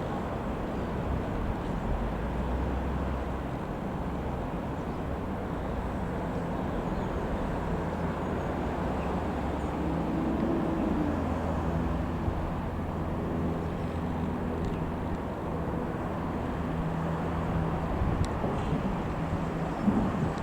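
Single-engine light propeller aircraft, a Piper PA-28-180 Cherokee, droning steadily under a low rumble, its engine hum rising and falling briefly about ten seconds in.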